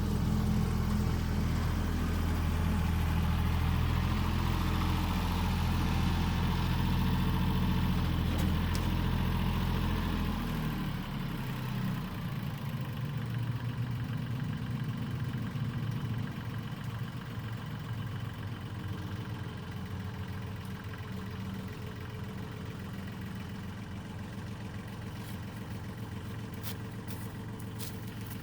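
An engine running steadily with a deep, even note, which drops away about ten seconds in, leaving a fainter running sound; a few sharp clicks near the end.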